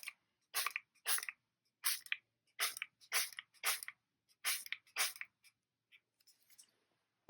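A small hand-pumped ink spray bottle spritzing alcohol ink, about nine short hissy squirts in quick succession, then a few faint ones.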